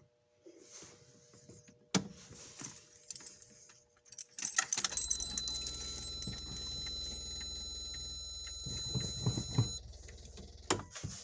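Keys jangling at the ignition of a 1985 Mazda RX-7, with a click, then from about four seconds in a steady low hum with a high steady warning tone over it for about five seconds as the key is turned. The hum cuts off about a second before the end.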